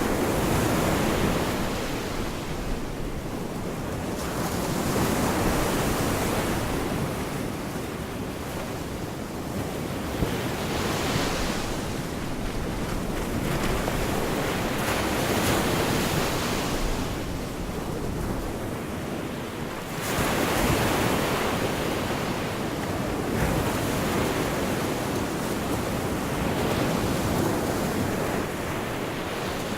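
Gulf of Mexico surf washing onto the beach, with a wave breaking and rushing in every few seconds; one surges in suddenly about two-thirds of the way through. Wind buffets the microphone underneath.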